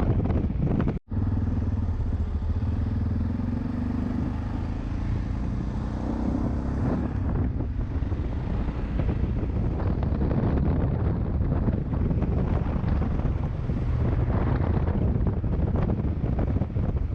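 Yamaha Ténéré motorcycle engine running under way, its pitch rising and falling a little as the revs change, with a brief break in the sound about a second in.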